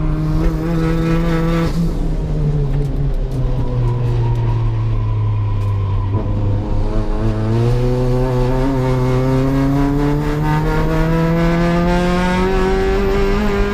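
Race car engine running hard on a lap: its pitch drops about two seconds in as the car slows, holds low for a few seconds, then climbs steadily through the second half as the car accelerates in one long pull.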